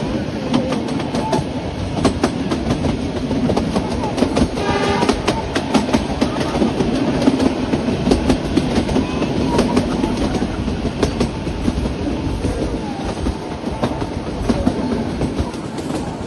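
Narrow-gauge Kangra Valley Railway train running, its wheels clicking steadily over the rail joints. A short horn sounds about four and a half seconds in.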